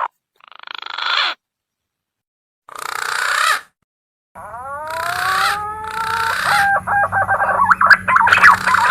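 Green pigeon (punai) lure calls: two short hoarse bursts broken by abrupt silences, then from about halfway several overlapping whistled notes that glide upward and hold, over a low hum.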